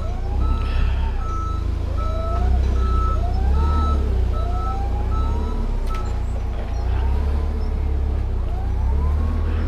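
A reversing alarm beeps steadily, about one and a half beeps a second, over a running engine's rumble, and stops about six seconds in. High wavering squeals rise and fall throughout, typical of a working machine such as a forklift or loader moving a load.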